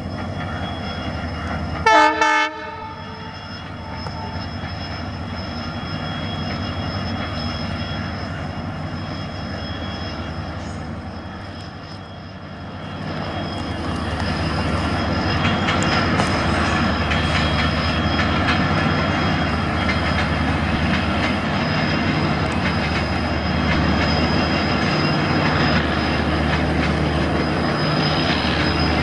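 Diesel locomotive hauling a double-decker passenger train: one short, loud horn blast about two seconds in, then the steady drone of the locomotive and the rumble of the train. It grows louder about halfway through.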